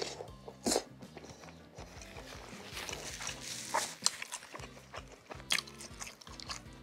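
Close-miked eating of cilok, chewy tapioca balls in spicy sauce: chewing with wet mouth clicks and smacks, a few sharper ones standing out, over faint background music.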